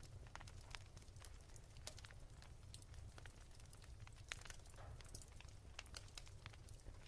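Wood fire crackling softly: irregular sharp pops and snaps over a low steady rumble.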